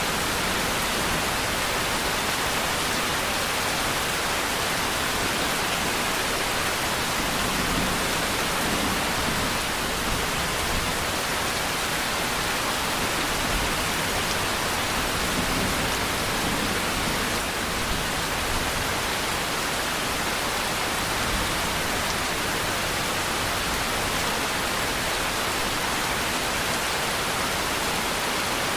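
Steady, heavy rainfall, a continuous even hiss of rain with no single drops standing out.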